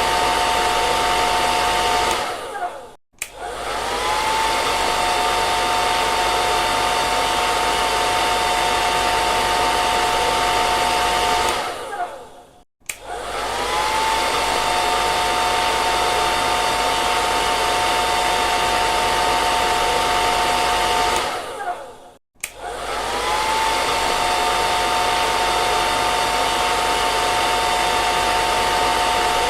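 Hand-held hair dryer blowing with a steady rush of air and a motor whine. Three times, about every ten seconds, it winds down to a brief silence and then starts up again, the whine rising back to speed.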